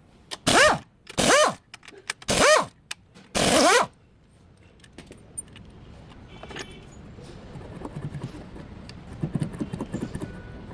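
Impact wrench fired in four short bursts, each whirring up and falling away in pitch, as bolts are worked during an engine mount change. After that come quieter clinks and light metallic taps of tools and parts being handled.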